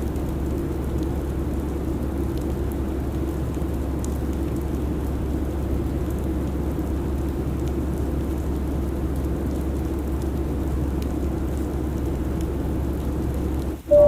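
Steady airliner cabin noise in cruise: a constant low rumble under an even hiss. It drops out for a split second near the end.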